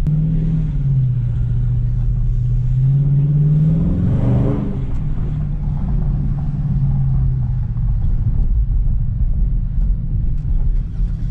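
Car engine and exhaust droning steadily, rising in pitch about three to four seconds in and peaking around four and a half seconds in as it accelerates, then easing back to a steady drone.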